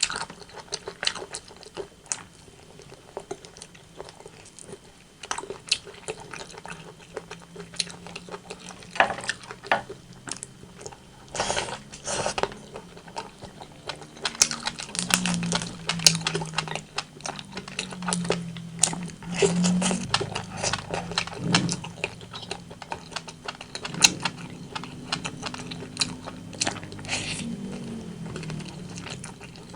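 Close-miked eating of rotisserie chicken: wet, clicky chewing, biting and mouth sounds throughout, denser in the second half. A low hum comes and goes under the chewing through much of the second half.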